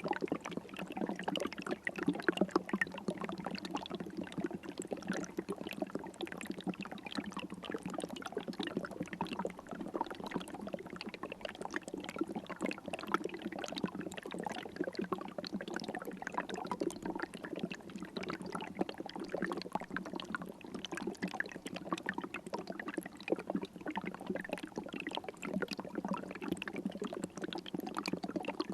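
River water flowing and trickling: a steady babble of small splashes and gurgles.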